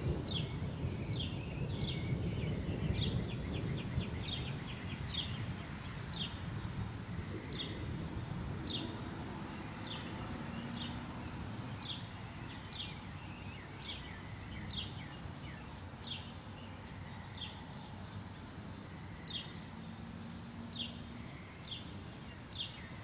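A songbird repeating a short, high, falling chirp about once a second, over a low rumble that fades away during the first several seconds.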